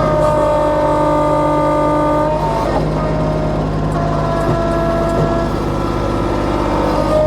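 Kubota B2650 compact diesel tractor running steadily under load while working a grapple into a downed tree, with a whine that shifts in pitch a couple of times.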